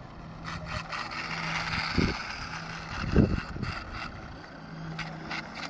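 Small electric motor of a toy RC motorcycle whirring, swelling and then fading over a few seconds, with a few low thumps of wind on the microphone.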